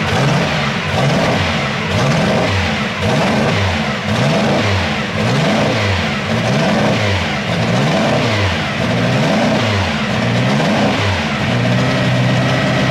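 Vintage racing car's inline engine revved repeatedly while standing still, the revs rising and falling in quick throttle blips about once a second, then settling to a steady idle near the end.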